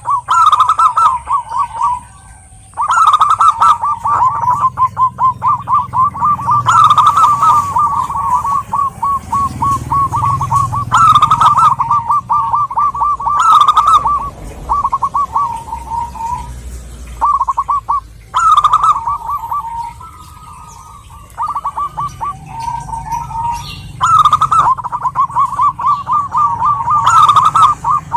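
Zebra dove (perkutut) cooing: long runs of quick, repeated staccato coo notes, broken every few seconds by short pauses.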